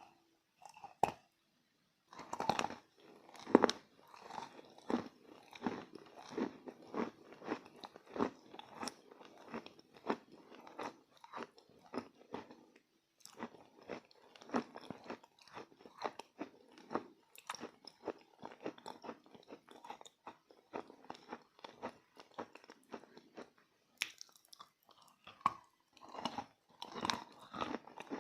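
A person chewing edible chalk close to the microphone: steady crunching chews, about two a second, with two brief pauses.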